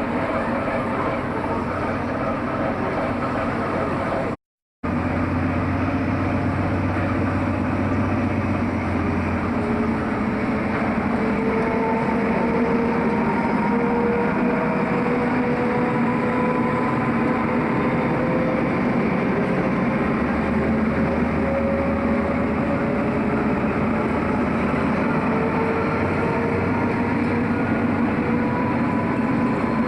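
Train running, a steady rail noise with a whine that rises slowly in pitch as it gains speed. The sound drops out for a split second about four and a half seconds in.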